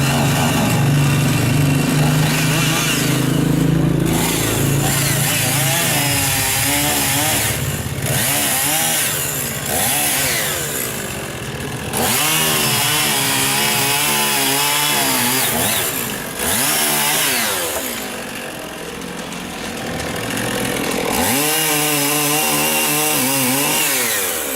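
Two-stroke chainsaw running and cutting wood, its engine revving up and dropping back several times as it works through the cut.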